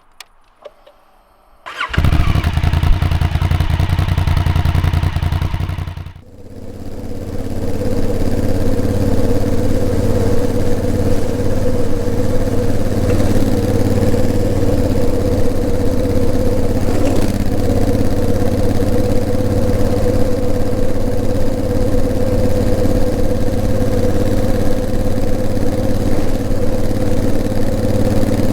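Honda CRF1000L Africa Twin's parallel-twin engine starting up about two seconds in and running; it drops away briefly around six seconds, then runs steadily on.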